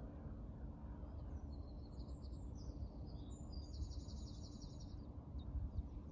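A songbird singing a run of quick, high chirps and trills from about a second in until near the end, over a steady low background rumble.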